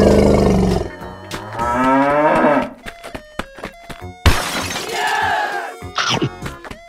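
A loud low buzzy cartoon sound effect ends about a second in. It is followed by a cow mooing. About four seconds in comes a sharp crash and the clatter of a block shattering into pieces, with background music.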